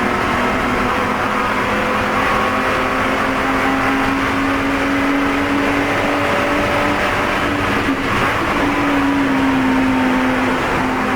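Spec E46 BMW race car's straight-six engine running hard under load, heard from inside the car, its pitch slowly rising and easing with a brief break about eight seconds in.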